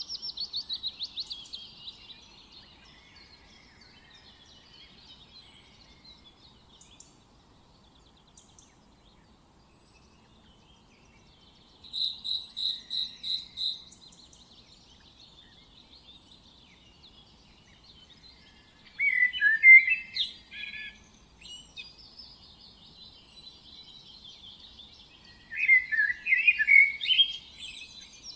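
Small birds singing and chirping: a rapid trill at the start, a run of about seven evenly spaced chirps around twelve seconds in, and louder warbled phrases around twenty and twenty-six seconds in, over faint background noise.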